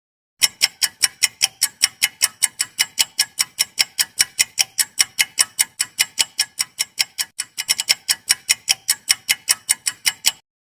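Clock-ticking sound effect used as a quiz countdown timer: quick, even ticks about five or six a second. There is a brief flurry of faster ticks about three quarters of the way through, and the ticking stops abruptly near the end.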